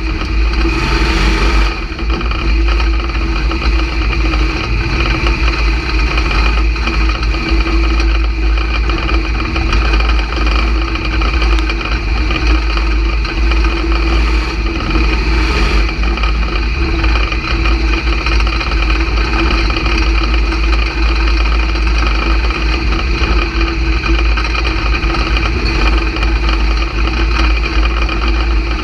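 A dirt-track stock car's engine heard from inside the cockpit, running steadily at low throttle with a heavy low rumble and no big revs.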